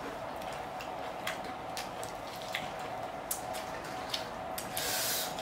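Close-miked eating sounds: chewing a lettuce wrap of spicy noodles, with scattered wet clicks and crunches, and a longer crunchy burst about five seconds in.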